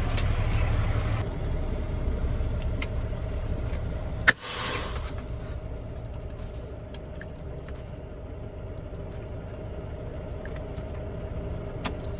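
Semi truck's engine running steadily with a low rumble. About four seconds in there is a short, sharp burst of hiss.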